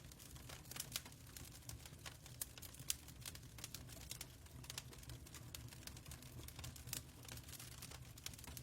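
Fire crackling in a fireplace: irregular sharp snaps and pops over a low steady rumble.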